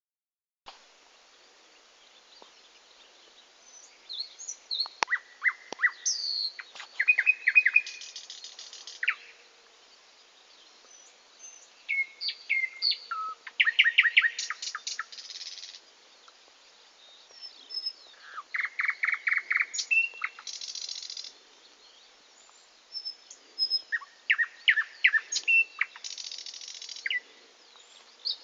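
A songbird singing, four song phrases about six seconds apart, each a run of quick chirps and rapidly repeated notes that ends in a short buzzy rattle.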